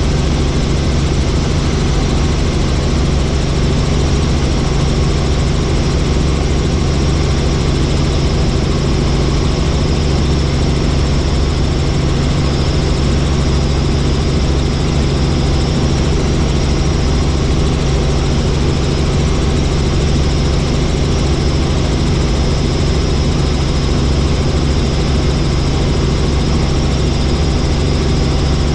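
Helicopter in flight: steady rotor and turbine engine noise with a deep low drone and a faint high whine, unchanging throughout.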